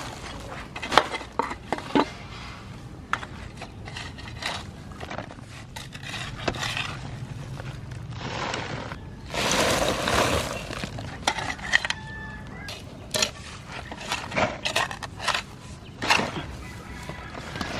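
Scattered clatters and knocks of objects being handled, with a longer scraping rustle about nine to ten seconds in.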